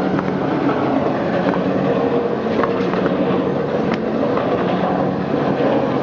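Snack food drum seasoning machine running: a steady motor hum under a rumble, with scattered light clicks.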